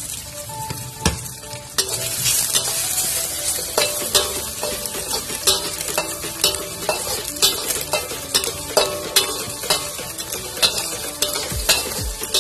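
Sausage slices and dried anchovies sizzling in hot oil in a metal wok. A metal spatula scrapes and clinks against the wok over and over as they are stirred, starting about two seconds in.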